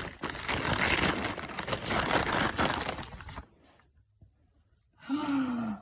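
Crinkling plastic packaging of a dog treat being handled and opened, which stops about three and a half seconds in. Near the end comes a brief pitched vocal sound that falls in pitch.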